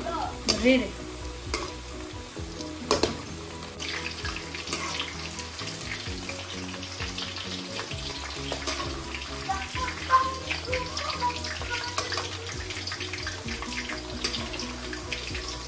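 Potato slices deep-frying in hot oil in a metal wok: a steady, dense crackling sizzle, with two sharp knocks in the first three seconds.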